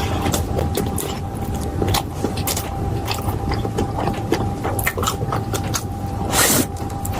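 Close-miked chewing and crunching of crisp food, a dense run of small sharp crackles, with a louder crunchy bite about six seconds in. A faint steady hum runs underneath.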